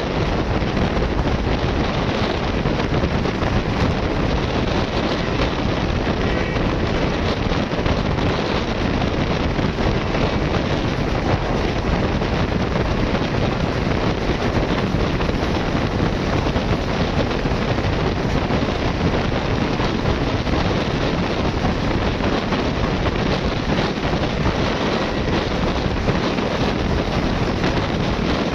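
Steady wind rushing over the microphone, with a low rumble beneath it, unchanging throughout.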